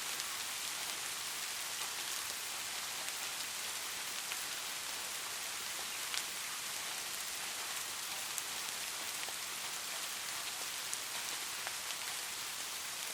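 Steady light rain: an even hiss of falling rain with scattered individual drops ticking, one slightly louder about six seconds in.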